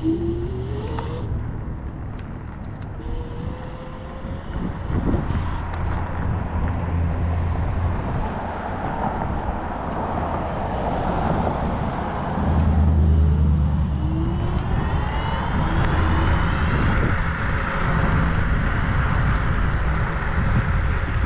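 Road and traffic noise heard while riding, with a few short rising whines and a louder low vehicle rumble about twelve seconds in.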